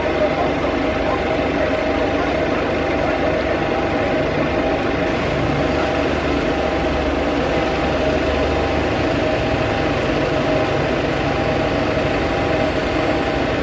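Vehicle engine idling: a steady hum over a low rumble that does not change.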